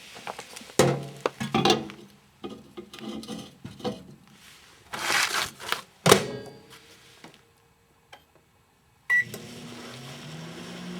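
Clattering knocks as things are handled and set up, with a loud clunk about six seconds in; then a short keypad beep just after nine seconds and a microwave oven starts running with a steady low hum.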